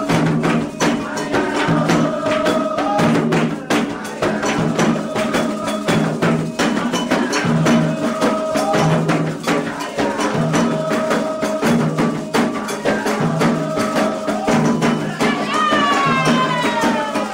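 Candomblé Ketu ritual music: atabaque hand drums and struck percussion playing a fast, steady rhythm under a chanted song. Near the end a high pitched voice or call slides downward.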